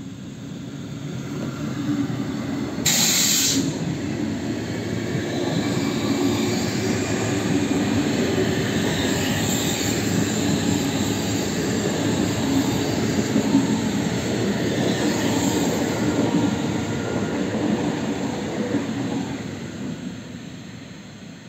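Electric multiple-unit commuter train passing close by. Wheel and rail noise rises as it approaches, holds steady while the coaches go past, and fades as it pulls away. A short burst of high hiss comes about three seconds in.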